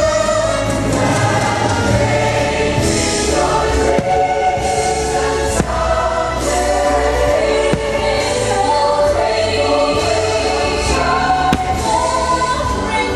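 Fireworks-show soundtrack: a choir singing over orchestral music. A few sharp cracks, likely firework bursts, cut through it about a third of the way in, midway and later on.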